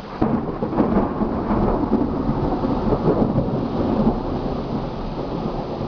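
A thunderclap breaks sharply just after the start, then rolls and crackles for several seconds, easing slightly toward the end, over steady rain.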